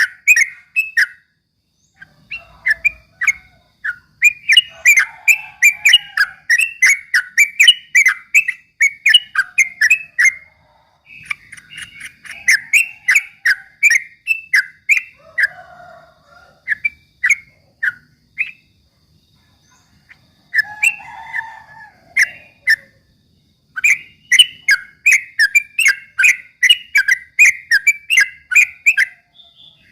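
Yellow-vented bulbul (trucuk) singing a rapid, chattering run of short whistled notes in long phrases, broken by brief pauses.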